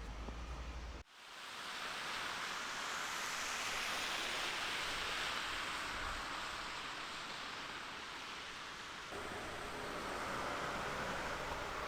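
Steady outdoor hiss of a snowstorm, with wind and blowing snow. It cuts out abruptly about a second in and swells back, then shifts to a fuller, lower rumble near the end.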